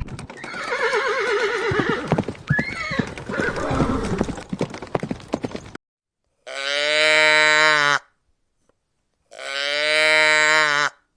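Animal calls: a quavering, wavering-pitched call mixed with clicks for the first half, then after a short silence two long, even-pitched calls about a second and a half each, with a gap between them.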